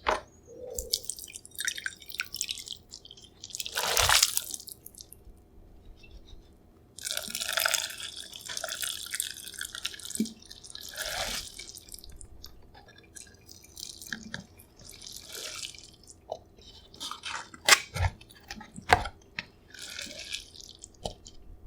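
Yukgaejang cup ramyun noodles and broth being tipped from the cup into a bowl: liquid pouring and splashing in several short spells, with a few sharp knocks near the end.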